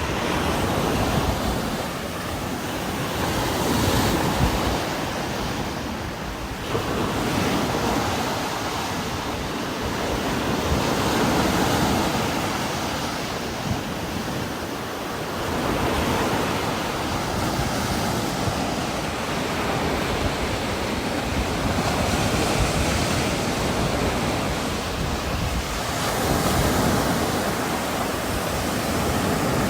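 Heavy rain falling steadily with strong wind gusting through it, the whole noise swelling and easing every several seconds.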